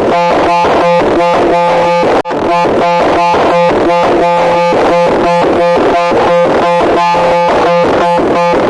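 Loud, harsh electronic tone pulsing rapidly, about four times a second, over a steady low hum, with a brief break about two seconds in.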